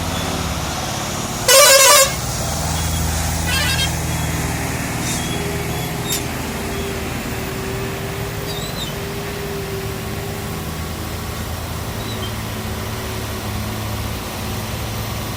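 Ashok Leyland 3525 truck's four-cylinder BS6 diesel engine running steadily under load. A loud horn blast sounds about one and a half seconds in, followed by a shorter, fainter one about two seconds later.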